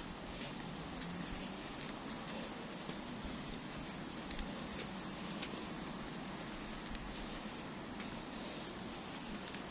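Small birds chirping, short high notes in quick twos and threes every second or two, over a steady background hiss of outdoor street noise.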